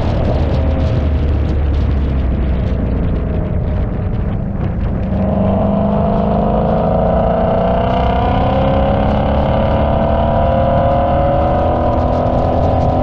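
Car engine pulling under load, its pitch climbing slowly for several seconds as the car gathers speed. The pitch drops at the start and again at the end, as at a gear change.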